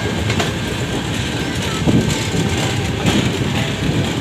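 Passenger train running slowly on the rails: a steady rumble of wheels and coaches with scattered clacks over the rail joints.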